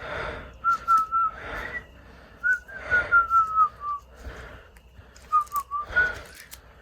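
A person whistling short, wavering notes in several broken phrases, with loud breathy gasps between them.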